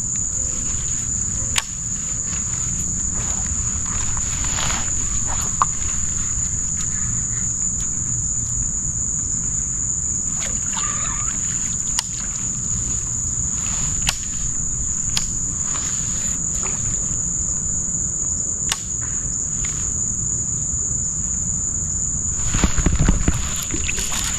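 Insects buzzing in one steady high-pitched drone, over a low rumble, with a few sharp clicks scattered through and a brief louder low-pitched noise near the end.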